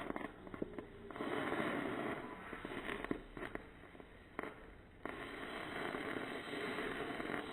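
Small indoor fireworks hissing in spurts, with scattered crackles and sharp pops between the spurts.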